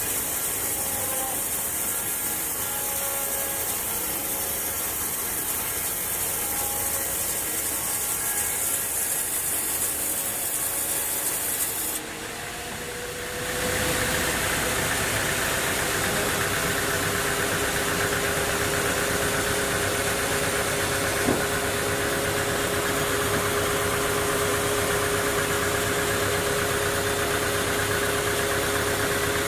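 An engine running steadily with a held whine. About twelve seconds in the sound cuts abruptly to a fuller, steadier engine hum, with a single click a little later.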